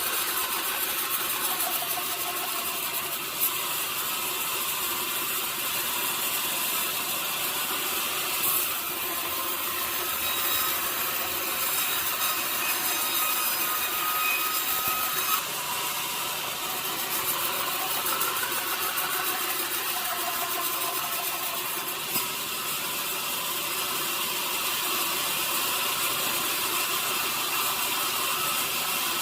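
Sawmill machinery running steadily, with a saw working mahogany, broken by a few sharp knocks.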